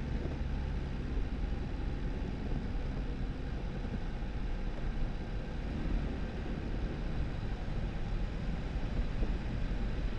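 2018 Jeep Wrangler driving steadily: a constant low rumble of engine and tyres rolling on a snow-covered dirt road.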